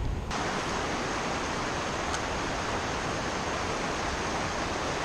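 Steady rush of river water over rapids, an even hiss that begins abruptly a moment in.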